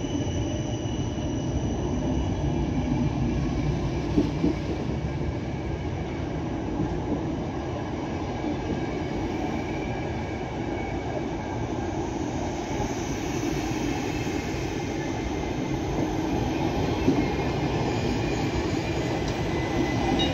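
A passenger train of ÖBB Nightjet and PKP Intercity coaches rolling past along the platform: a steady rumble of wheels on the rails with a faint high wheel squeal, and a couple of clunks, one about four seconds in and one near the end.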